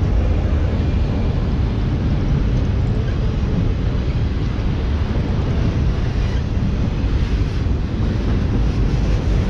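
Autorack freight cars rolling past on the rails: a steady, loud, low rumble of wheels and car bodies.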